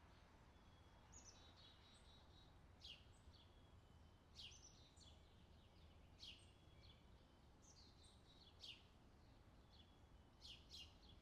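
Faint birdsong from an outdoor summer ambience recording: short downward-sweeping chirps every second or two, with a few brief trills, over a steady low background rumble.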